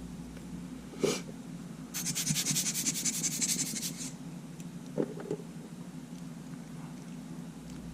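Small parts being handled on a workbench: a sharp click, then about two seconds of fast, evenly spaced scratching strokes, then two light knocks, over a steady low hum.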